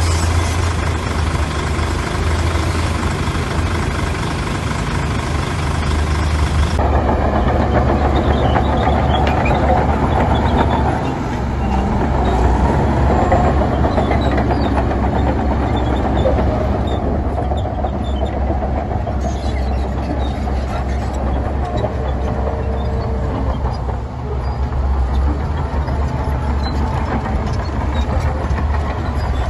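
Heavy diesel construction machinery running steadily with a deep low rumble. The sound changes abruptly about seven seconds in, as the mix of machines shifts.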